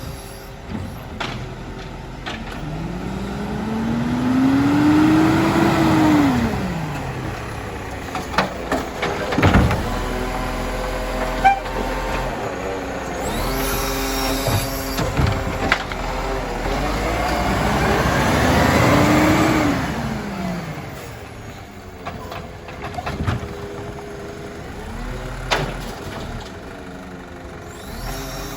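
Iveco Stralis garbage truck engine revving up and back down twice, with several sharp knocks and clanks between the two revs.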